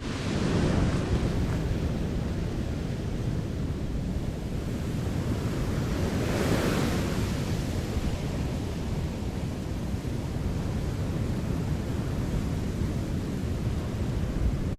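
Strong wind blowing across the microphone, a steady rushing that swells in a gust about six to seven seconds in.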